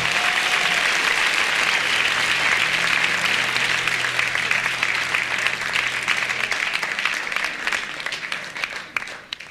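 Studio audience applauding at the end of a number, heard on an FM radio air-check taped to cassette. The clapping fades from about seven seconds in and thins to a few scattered claps near the end.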